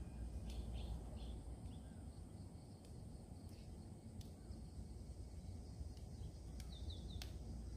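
Faint outdoor background: a low steady rumble with a few short high bird chirps, more of them near the end, and a few light clicks.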